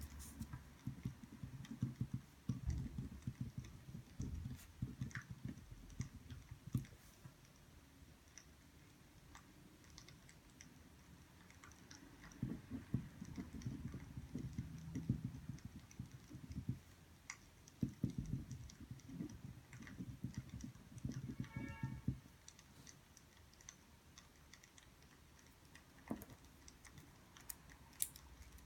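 Desk sounds of someone studying: soft knocks, rubbing and small clicks of pen and paper handling, coming in bursts with quieter gaps, and a brief squeak a little after the middle.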